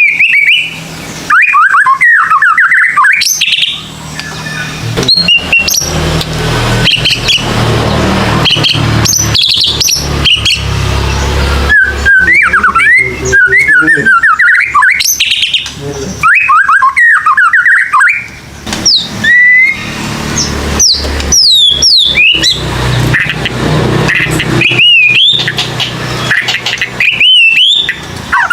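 White-rumped shama (murai batu) singing loud, varied whistled phrases with quick rising and falling notes, broken by short pauses. A low rumble of background noise swells under the song in places.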